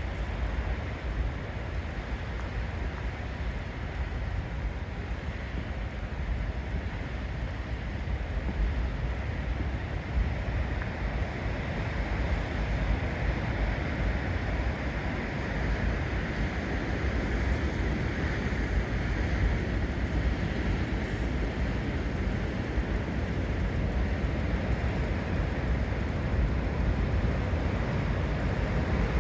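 Sea surf washing against a rocky shore, a steady rushing noise heavy in the low end, with wind buffeting the microphone; it grows slightly louder toward the end.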